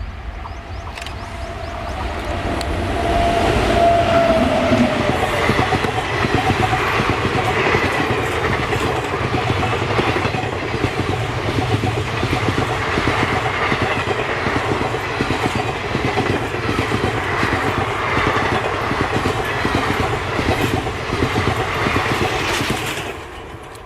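Passenger train hauled by a WAP-7 electric locomotive passing at speed, its wheels clattering steadily over the rail joints. The sound builds over the first few seconds, holds loud, and cuts off sharply near the end.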